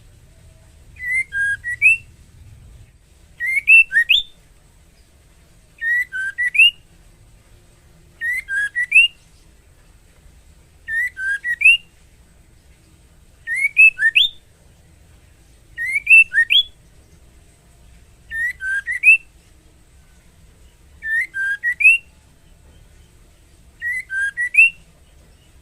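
Female white-rumped shama giving her call to a male, the call of a hen ready to breed. It is a short burst of three or four quick rising whistled notes, repeated about every two and a half seconds.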